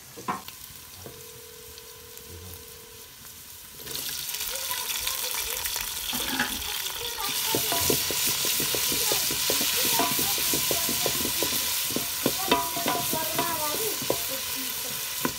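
Onions and tomatoes frying in a pan. A sizzle jumps up suddenly about four seconds in and grows louder, while a spoon stirs and knocks against the pan.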